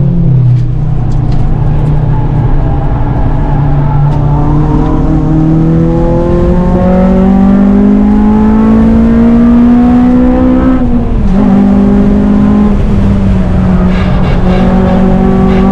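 Honda Civic Type R's four-cylinder engine under hard acceleration on track: the note dips right at the start, climbs slowly through a long pull in one gear, drops sharply at an upshift about eleven seconds in, then runs at a fairly steady pitch.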